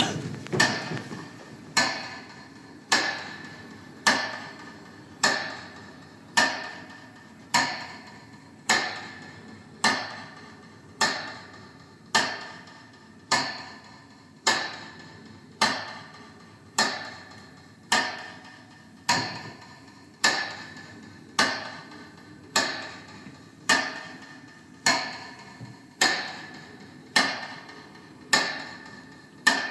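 Slow, even metronome beats, a little over one a second, each a sharp tick with a short ringing decay: the metronome sounded for a minute of silence in memory of the war dead.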